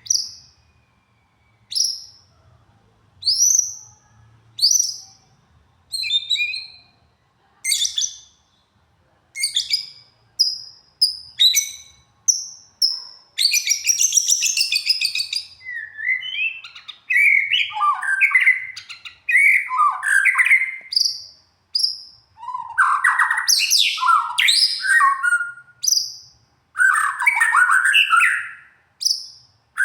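A songbird singing: short separate rising whistles about once a second at first, then from about halfway a fast, unbroken run of varied chirps, trills and warbling phrases.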